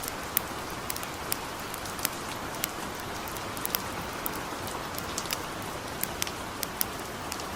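Steady hiss of gentle rain mixed with the crackling of a wood campfire: sharp pops come a few times a second at irregular intervals.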